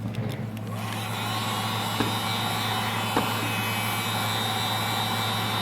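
Electric heat gun switched on about a second in and running steadily, its fan blowing air with a thin high whine. Two short clicks come through over it.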